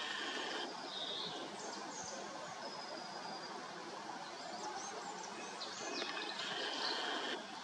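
Wild birds singing in the background: short, high whistled phrases and trills come and go over a steady hiss of outdoor noise.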